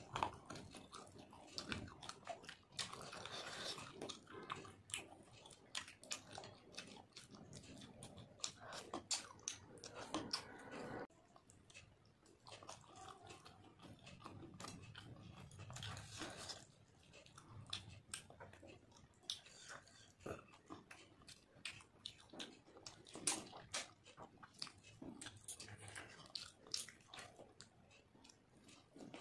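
Close-up mouth sounds of someone eating fish curry and rice by hand: wet chewing with many small, irregular lip smacks and clicks.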